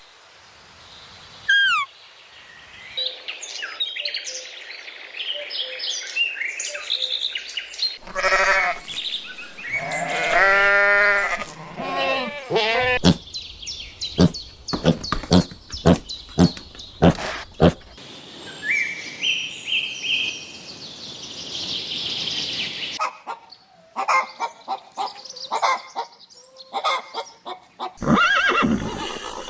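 A mix of farm-animal sounds: a long wavering bleat in the middle, with bird chirps and whistles and a run of short, sharp calls or knocks.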